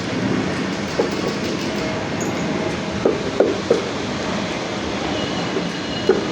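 Front-loading automatic washing machine drum turning with a steady rumble and a few short knocks, the noise of a worn drum bearing.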